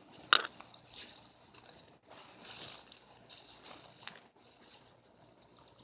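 Grass stems and plant foliage rustling and crinkling as they are wrapped around the wreath by hand, with one sharp snap shortly after the start.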